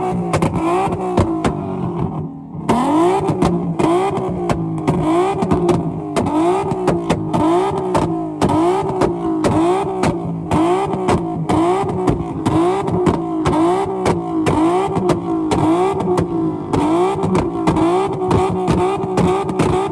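Car engine revved hard in quick repeated throttle blips, about one and a half a second, in a rev-off contest. The blips pause briefly about two seconds in, and sharp crackles run through them.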